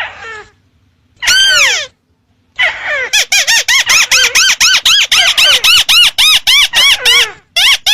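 Ruddy-breasted crake lure call. There is one loud arching call about a second and a half in. After a short pause comes a fast run of arching notes, about four a second, which carries on to the end.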